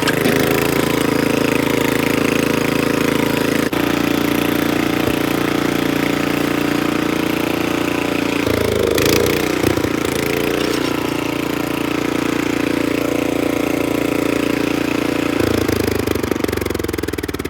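Troy-Bilt Horse rear-tine rototiller's small gasoline engine running steadily as the tiller is driven along. Its note shifts briefly twice, and it begins to slow down near the end.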